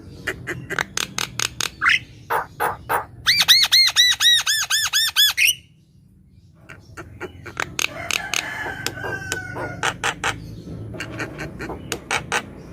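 Javan myna singing in full voice: a fast run of harsh clicks and rattles, then a quick series of about ten arched, ringing notes. After a pause of about a second comes more clicking chatter with a short whistle.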